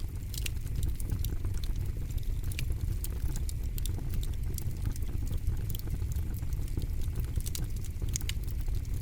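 Campfire crackling: irregular sharp pops and snaps over a steady low rumble, with a few louder pops about half a second in, around two and a half seconds in and near the end.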